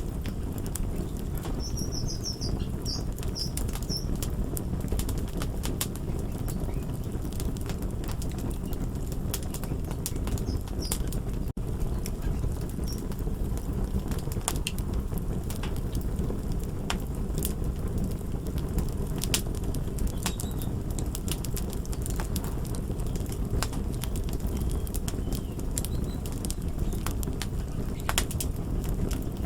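Crackling wood fire: a steady low rumble of burning with frequent sharp pops and snaps scattered throughout. A few brief high chirps sound about two seconds in.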